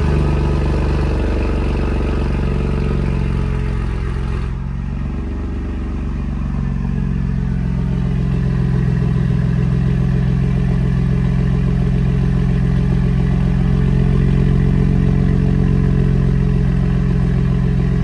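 Ford F-150's 2.7 EcoBoost twin-turbo V6 running just after start-up, loud through catless downpipes with the resonator and muffler deleted. The start-up flare settles back about four to five seconds in, and the engine then idles steadily.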